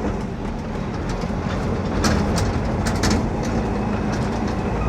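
Engine and road noise inside a moving car, a steady low rumble, with a few sharp rattles or knocks around two and three seconds in.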